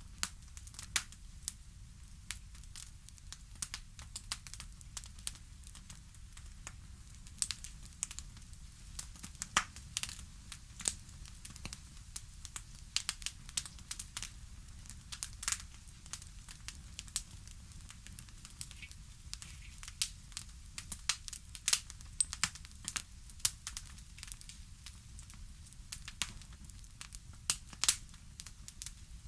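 Wood fire crackling in a fireplace: irregular sharp pops and snaps, several a second and varying in strength, over a faint steady low rumble.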